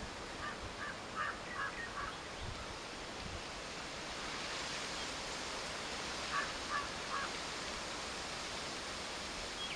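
A bird calling in two short runs of quick repeated notes, four near the start and three about two-thirds of the way in, over a steady outdoor hiss that swells slightly about halfway through.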